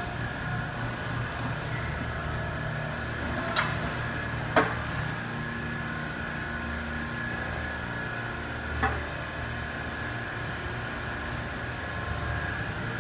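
Yale AC-drive turret truck forklift running: a steady electric drive and hydraulic hum with a thin high whine, broken by three sharp clicks.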